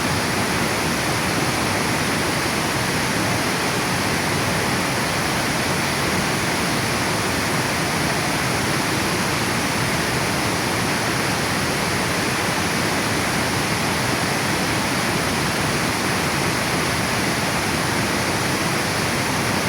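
Water pouring over a river dam: a steady, unbroken rush of falling water.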